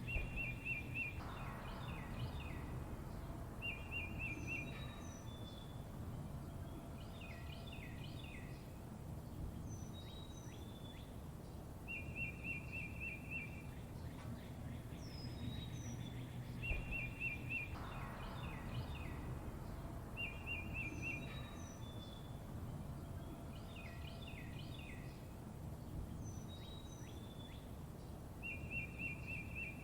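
Several songbirds chirping and singing: a short rapid trill that comes back every few seconds, with clusters of quick falling chirps and high whistled notes between, over a steady low background rumble.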